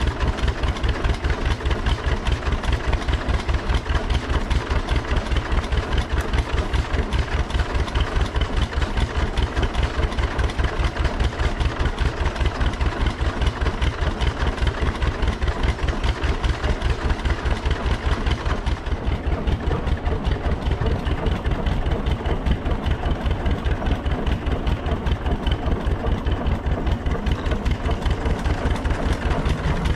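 Tractor engine idling steadily, with evenly spaced firing pulses.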